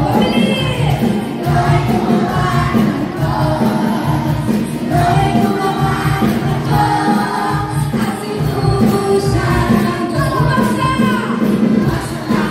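Upbeat Christian praise song: a group of voices singing together over backing music with a steady beat.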